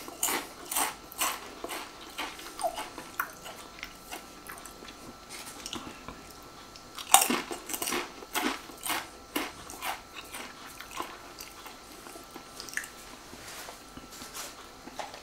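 Crunching and chewing of a Pringles potato crisp, with sharp crunches in two spells: one at the start and another about seven seconds in.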